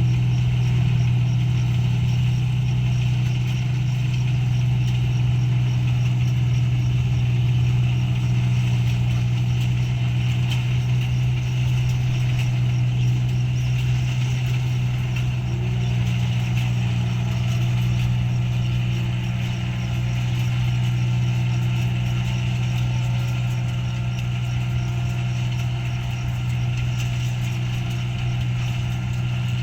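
Rice combine harvester's engine running steadily as it cuts paddy, a constant unbroken low hum.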